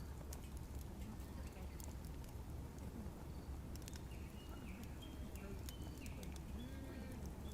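Outdoor ambience with a steady low rumble and scattered sharp clicks. In the second half a small bird gives a run of short, high chirps, about one every half second.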